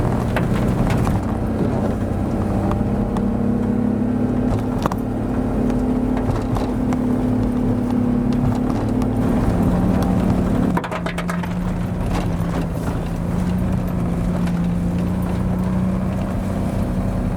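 Lifted Suzuki Carry kei truck's engine running at steady, raised revs, which drop suddenly about two-thirds of the way through and then hold lower. Scattered sharp clicks and knocks sound over the engine.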